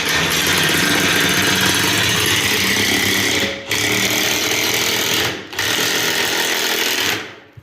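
Pneumatic tool running in three long bursts with two brief pauses, a loud steady buzzing hammering during truck tire bead work.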